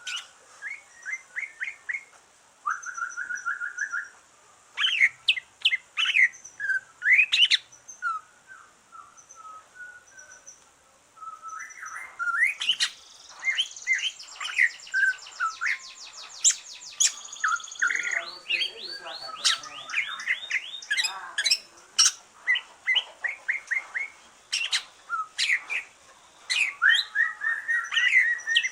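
Greater green leafbird (cucak ijo), freshly moulted, singing a long varied song of clear whistles, sweeping upward and downward notes and chirps, with a fast rattling trill partway through.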